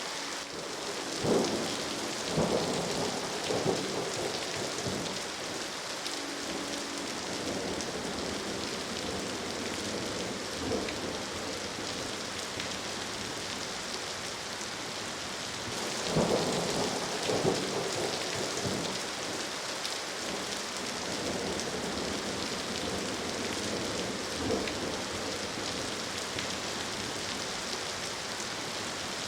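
Steady heavy rain with two rolls of thunder, about a second in and about sixteen seconds in, each made of several cracks over a few seconds. Fainter single rumbles come around eleven and twenty-four seconds.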